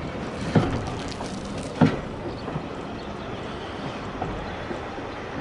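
Railway carriage running along the track: a steady rumble with two sharp knocks a little over a second apart.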